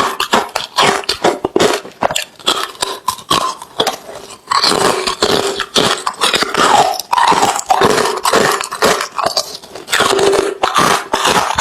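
Hard refrozen crushed ice being chewed close to the microphone: a dense run of loud crunches and crackles, with a short lull about four seconds in before the crunching picks up again.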